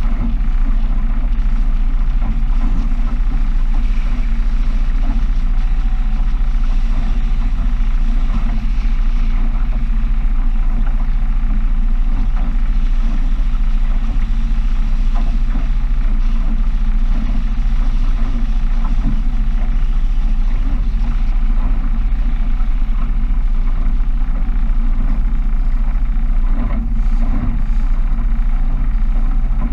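Small powerboat's engine running steadily under way, heard from on board: an even, low, droning hum that holds at one speed.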